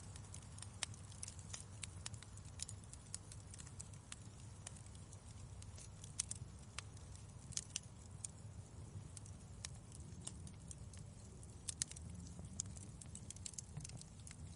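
Fireplace fire crackling: irregular sharp snaps and pops over a low steady rumble.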